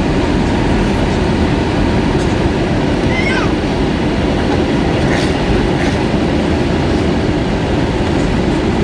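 Steady cabin roar of an Airbus A320-232 in flight, a low, even rush of engine and airflow noise heard from inside the cabin.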